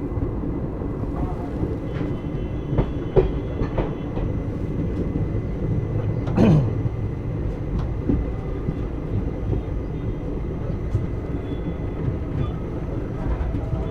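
Passenger train running along the line, heard from on board: a steady rumble of the coach's wheels on the rails, with a few sharp knocks from the track, the loudest about six and a half seconds in.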